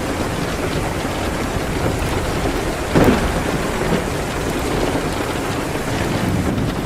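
Steady rain on a window mixed with a crackling wood fire. A sharp pop stands out about three seconds in, with a smaller one a second later.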